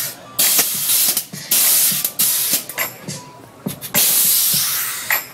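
Pressurized air hissing out in a series of sharp bursts, short ones close together and then a longer blast of about a second near the end.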